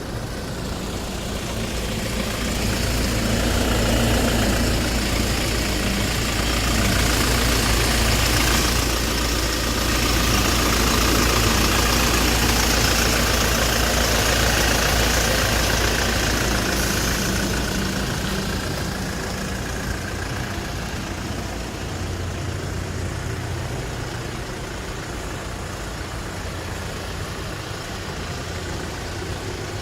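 Hyundai Porter II truck's engine running, with a steady low hum that swells louder with added hiss for several seconds and then eases back toward idle.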